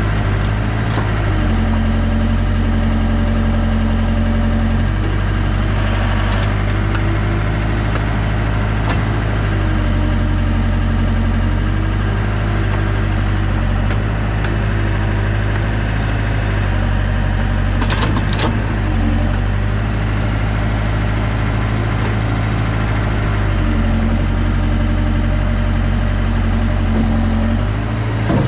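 Heavy equipment engine running steadily, its pitch stepping up and down every few seconds as it takes and sheds load, with a sharp knock about 18 seconds in.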